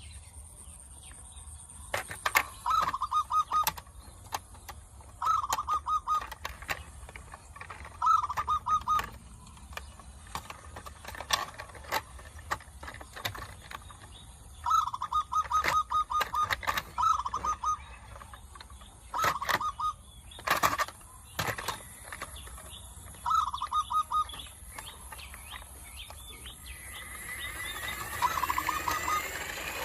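A bird calling in short, rapidly pulsed bursts, roughly every three seconds, among scattered sharp clicks and taps.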